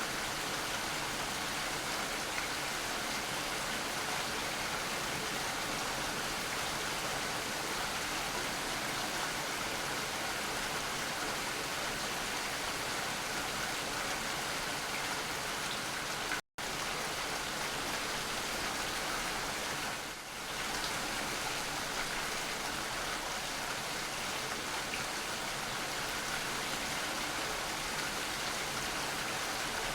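Steady rainfall: an even, continuous hiss of rain, cutting out for an instant about halfway through.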